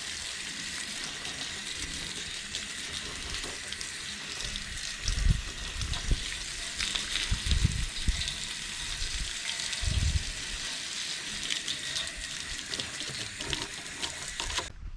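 Garden hose spray nozzle spraying water on the metal grates of an outdoor AC condenser unit: a steady hiss of spray, with a few dull low thumps, cutting off suddenly just before the end.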